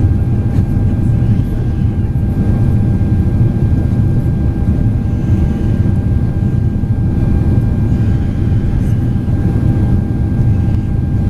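Boeing 767-400ER jet airliner heard from inside the cabin: a steady, loud low rumble of engine and airflow noise with faint steady whining tones over it.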